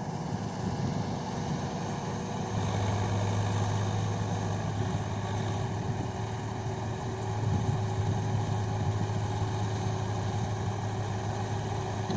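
Swaraj tractor's diesel engine running steadily, its low hum growing stronger about two and a half seconds in.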